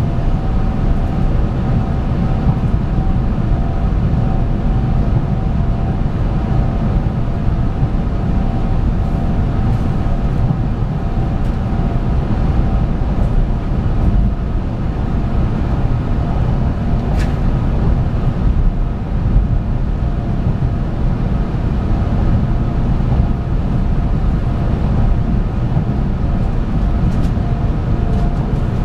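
Running noise of a 700 Series 7000 'Rail Star' shinkansen heard from inside the train: a steady low rumble from wheels and track, with faint steady tones above it.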